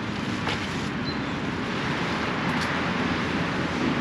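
Steady rush of highway traffic noise, growing slightly louder, with a faint click about half a second in.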